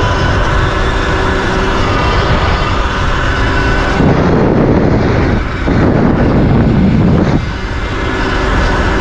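Sur-Ron electric dirt bike's motor whining steadily under way, with wind noise on the microphone. From about four seconds in, for some three seconds, the whine drops back under a deeper rush of noise, then returns.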